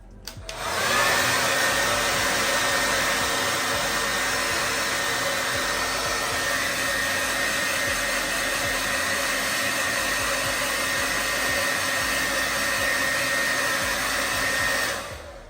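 Handheld hair dryer blowing steadily on high, with a constant whine, used to dry spritz sprayed on a wig so it sets. It switches on about half a second in and cuts off near the end.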